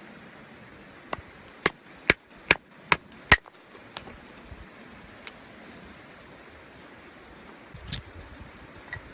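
A run of six sharp knocks about two and a half a second, each louder than the last, then a few faint clicks and one more knock near the end.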